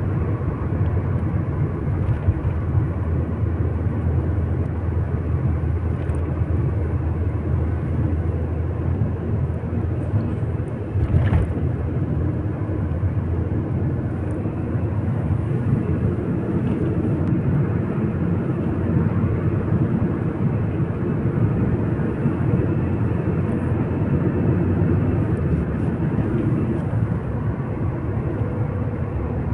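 Steady road and engine noise inside a moving car, with a brief knock about eleven seconds in.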